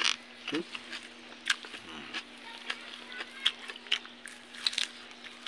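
Close-up chewing and crunching of raw vegetables: a run of sharp, crisp clicks. Chickens cluck a couple of times with short falling calls, over a steady low hum.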